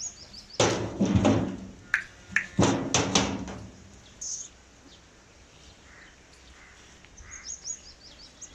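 Thumps and knocks from a calf being moved onto a livestock weighing scale, in two bunches in the first three seconds or so. A bird chirps a few times near the end.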